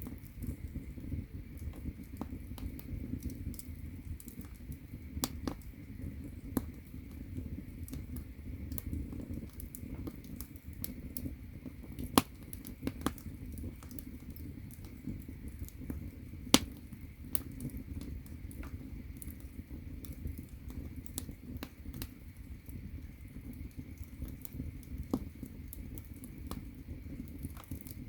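Firewood burning in an agungi, the firebox of a Korean ondol floor heater: a steady low rumble of flame with irregular crackles and snaps, and two louder pops, one a little before halfway and one a little after.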